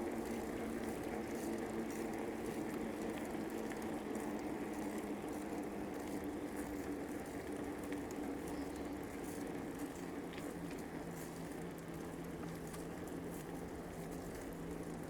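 Bicycle tyres rolling along a paved path: a steady rolling hum with faint crackle and ticks, the hum dropping slightly in pitch about ten seconds in.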